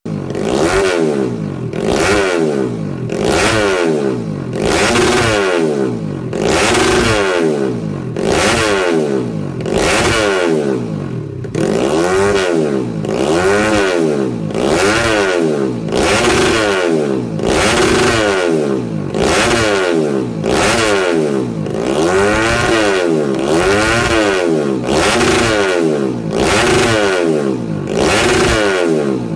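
Bored-up 130 cc four-stroke Yamaha Jupiter grasstrack motorcycle engine revved over and over, the pitch climbing and dropping back about once a second.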